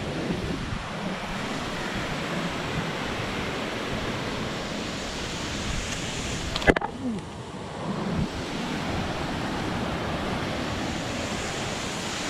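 Steady rush of falling and flowing water from a waterfall, with a sharp knock about seven seconds in.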